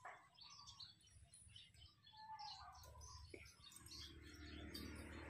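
Faint, scattered bird chirps and short whistles over near-quiet outdoor surroundings.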